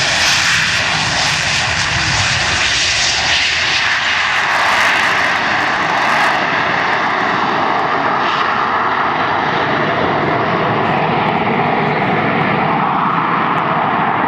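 Harrier jump jet's Rolls-Royce Pegasus turbofan running, a loud steady roar with a high whine held at a level pitch.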